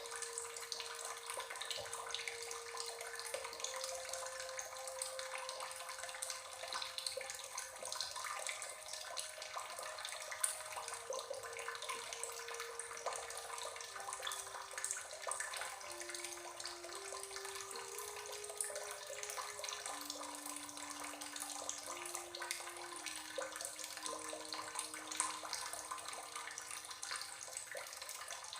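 Steady running, babbling water, a relaxation ambience of the stream or fountain kind, with a slow, soft melody of long single notes underneath that drifts lower in the second half.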